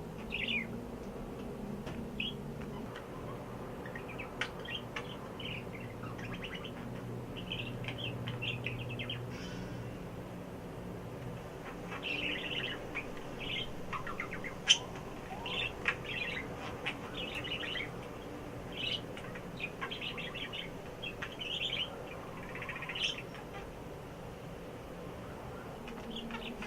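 Pet bird babbling: strings of short chirps and squeaks, coming in irregular bursts and busiest in the second half.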